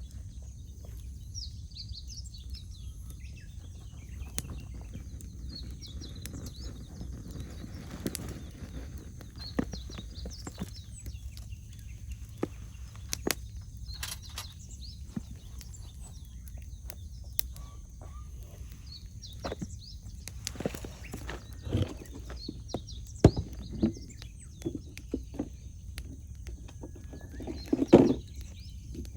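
Wood fire crackling, with irregular snaps and pops, a few louder ones in the last third. Small birds chirp in the background.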